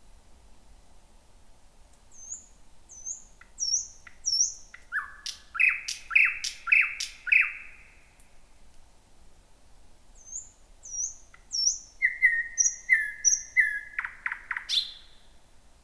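Thrush nightingale singing two song phrases. Each opens with thin, high hooked whistles, then runs into rapid dry clicks and a series of loud repeated lower notes; the second phrase ends in a clicking rattle.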